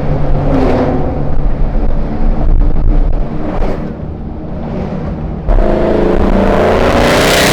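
Car engines running and revving, with short swells early on. About five seconds in, a louder car comes in suddenly, its engine note rising and swelling as it passes close.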